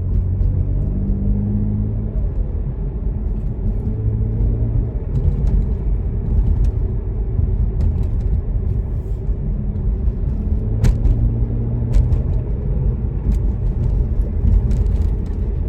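BMW 335i turbocharged engine running, a low rumble that swells and eases a few times, with the whining sound that the owner suspects comes from a boost leak or a failing turbo.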